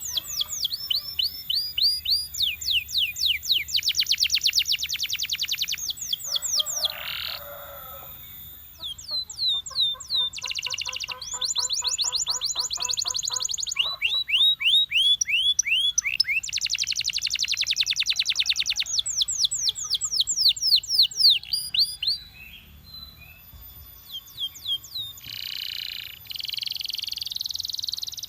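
Belgian canary singing: phrases of rapid trills, runs of quickly repeated high notes that sweep down in pitch, with short pauses between phrases. A lower rolling trill comes about a third of the way in.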